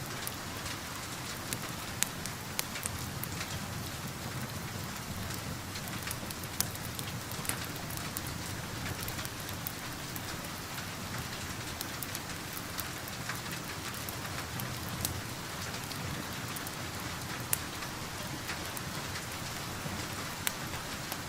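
Steady rain falling, mixed with the crackle of a wood fire: sharp pops and clicks scattered irregularly over the even hiss of the rain.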